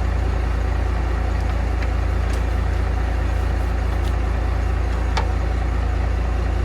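An engine idling steadily: a constant low rumble, with a couple of faint clicks.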